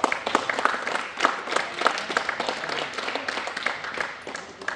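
Audience applauding with many hands clapping, thinning out and dying away near the end.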